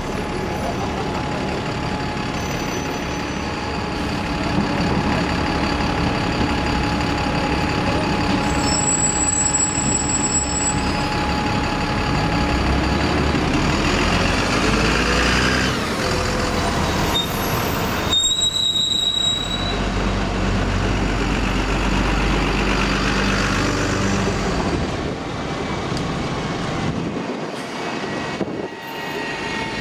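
City bus traffic: diesel buses running and moving off in heavy low rumbles, with brief high brake squeals or air-brake hisses partway through.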